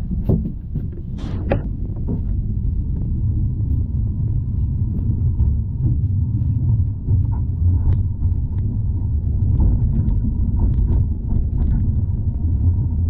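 Tram running, heard from inside the car: a steady low rumble, with a few sharp clicks and squeaks near the start.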